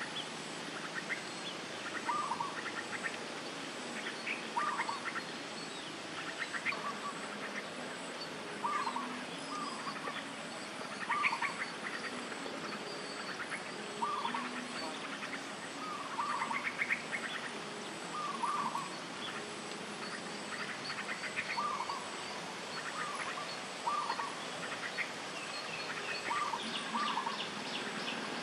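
Birds calling in short calls that repeat every one to two seconds, often two in quick succession, over a steady outdoor background hiss.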